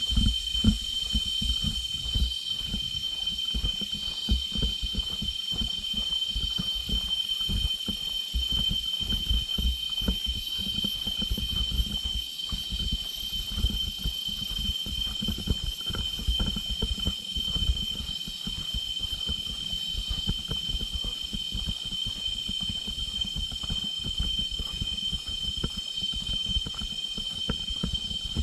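Steady high-pitched drone of rainforest insects, with fainter high tones above it, over an irregular low rumble and thumping.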